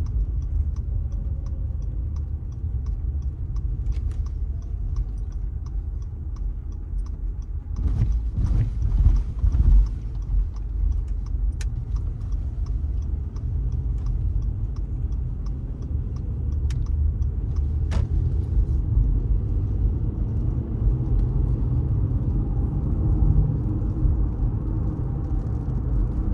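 Car driving, its road and tyre rumble steady from inside the cabin, with the faint regular ticking of a turn-signal indicator, about two to three ticks a second. The rumble swells louder for a couple of seconds about eight seconds in.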